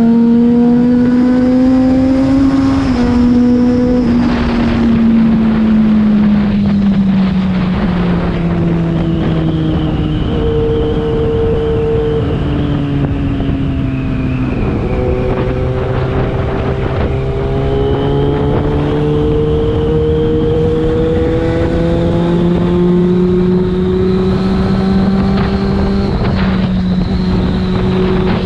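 Yamaha FZ6's inline-four engine through a LeoVince aftermarket exhaust while riding: the engine note climbs slowly and drops sharply several times, with the shifts and throttle changes of road riding.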